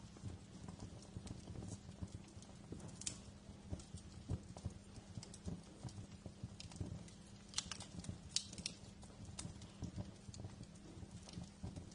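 Wood fire crackling: irregular sharp pops and snaps over a steady low rumble, with a cluster of louder snaps about eight seconds in.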